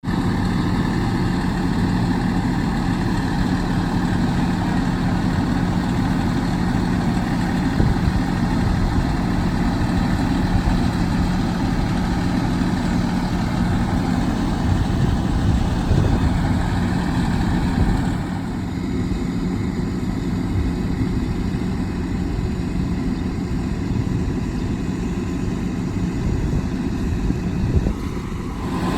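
Fire apparatus diesel engines idling with a steady low hum. The sound gets a little quieter about eighteen seconds in.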